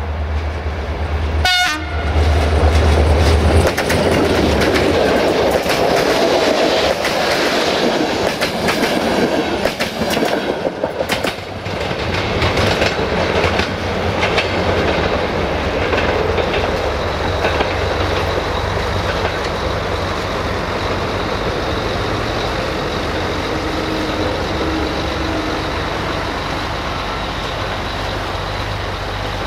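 A diesel-hauled passenger train passes close by. The locomotive gives one short horn blast about a second and a half in as its engine rumbles past. The coaches' wheels then clatter over the rail joints, and the sound slowly fades as the train goes away.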